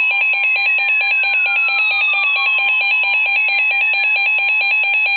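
Reecom weather radio sounding its alert for a severe thunderstorm warning: rapid pulsing electronic beeps alternating between a high and a low pitch over a steady tone.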